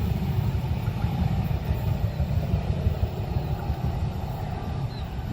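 A low, steady vehicle rumble that eases off slightly near the end.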